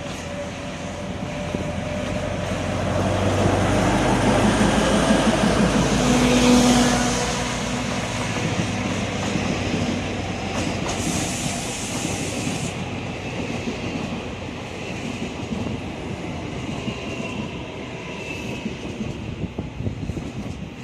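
Alishan Forest Railway narrow-gauge train moving along the track, its running gear rumbling and clattering, loudest about six seconds in. About halfway there is a short hiss, and later a thin wheel squeal.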